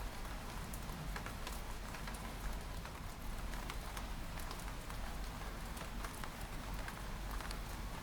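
Steady rain with many small drops tapping against window glass, over a low, even rumble.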